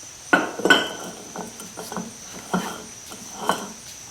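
Metal clinks and knocks from a steel hub puller being handled and fitted onto a wheel hub: about six separate sharp clinks, the two loudest close together near the start.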